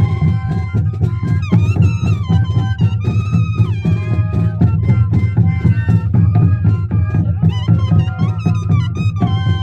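Moseñada music: a band of moseño cane flutes playing a wavering melody in parallel voices over steady, heavy drumming.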